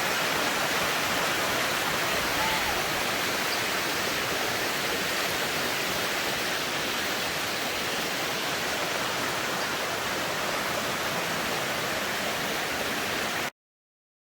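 Steady rush of water from a 53-metre waterfall, with no change in pitch or level, cutting off abruptly near the end.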